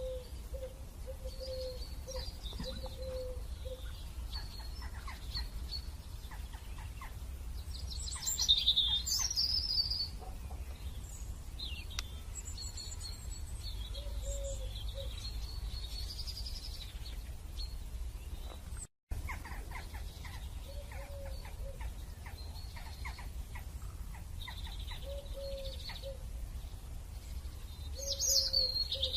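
Birds chirping on and off, with louder bursts of calls about a third of the way in and again near the end, and short low notes recurring, over a steady low hum. The sound drops out briefly about two-thirds of the way through.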